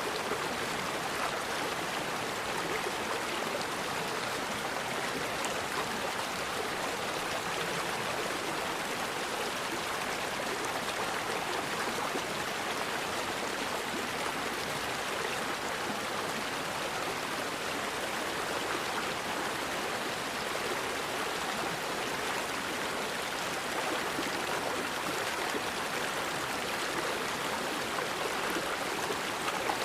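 Forest river water flowing in a steady, unbroken rush.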